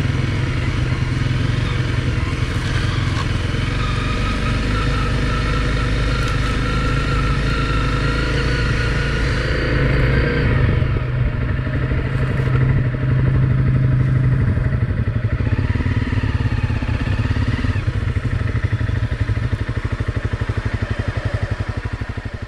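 Honda CRF250L Rally's single-cylinder engine running while riding. The engine pitch climbs slowly, then drops about halfway through.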